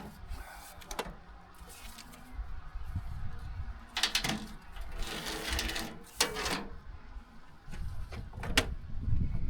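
Irregular clicks, knocks and scraping from hand work with tools and metal parts, over a low rumble.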